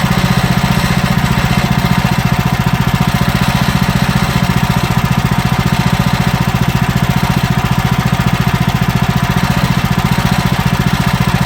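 Woodland Mills HM130Max portable band sawmill's gas engine running steadily with a fast, even beat.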